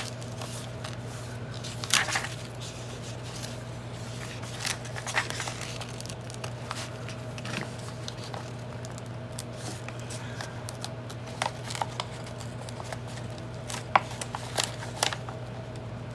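Scattered sharp crackles and rustles of old book paper and brittle binding glue as signatures are worked loose from the spine, over a steady low hum.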